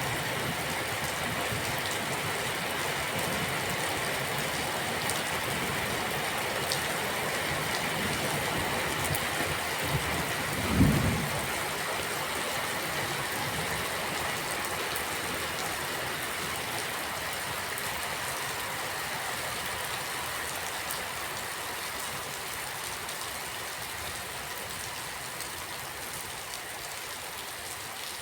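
Steady rain, an even hiss of drops that eases slightly towards the end. About a third of the way through comes one brief low thump, the loudest sound here.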